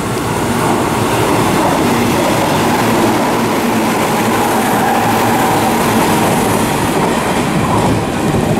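Hanshin 8000 series electric train passing through the station at speed in heavy rain, a loud steady rush of wheels on rails that builds in the first second.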